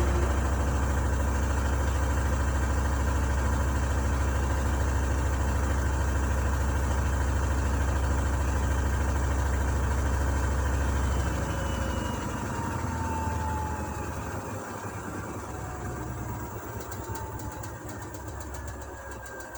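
Gorenje washing machine's drum spinning with a strong, steady hum. About eleven seconds in, the hum drops away and the motor winds down, with faint whines falling in pitch as the drum slows: the spin cycle coming to an end.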